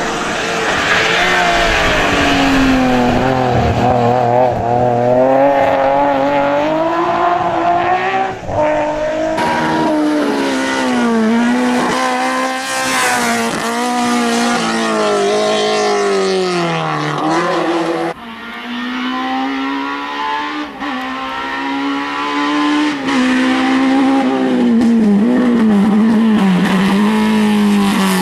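BMW M3 hill-climb race car engine run hard, revving up and dropping back again and again through gear changes and corners. The sound cuts abruptly to another pass about nine and about eighteen seconds in.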